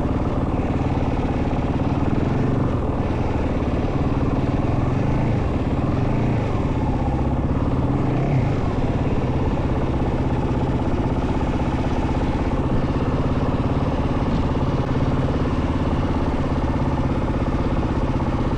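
Yamaha WR450F single-cylinder four-stroke dirt bike engine running steadily, its pitch wavering briefly a little before the middle.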